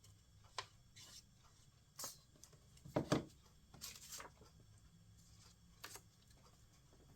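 Paper craft pieces being handled and pressed onto a paper plate: a few short rustles and taps, the loudest about three seconds in.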